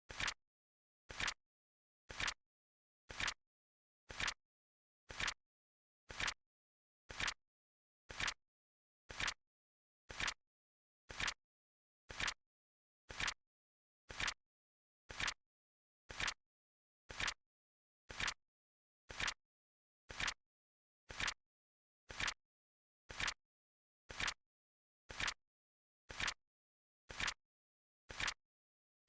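Flip clock sound effect: a short, sharp flap click once a second, evenly spaced, with silence between clicks.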